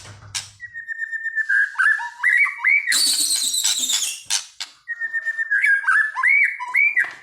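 White-rumped shama singing. Two similar whistled phrases, each a run of clear notes on one pitch that breaks into looping, up-swept notes, with a burst of harsher, higher notes between them.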